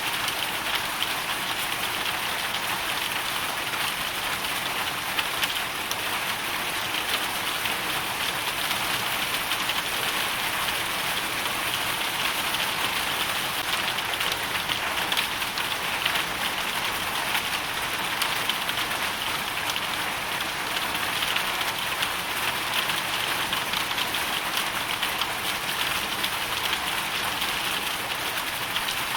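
Hailstorm: a dense, steady patter of hail and rain striking hard surfaces, countless small ticks blending into a continuous hiss.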